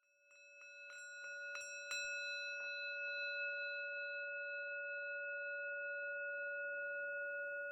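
Bell-like ringing tone that swells over the first two seconds under a run of about a dozen light taps, then holds steady and fades slowly.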